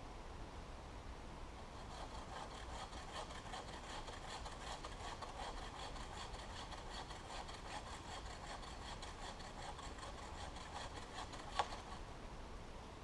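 Chain-type survival saw rasping through a wooden branch in steady back-and-forth strokes, with one sharp click near the end.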